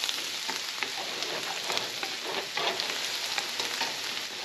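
A sofrito of onion, celery and garlic sizzling in butter in a skillet, with a steady crackle of many small pops, while a spatula stirs it, scraping and tapping the pan.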